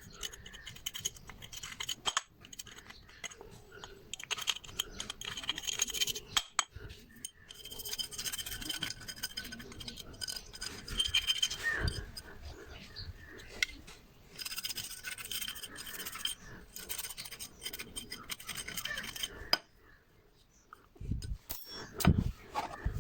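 Brush scrubbing starter motor parts clean with kerosene: irregular scratchy strokes with short pauses, and a couple of knocks near the end.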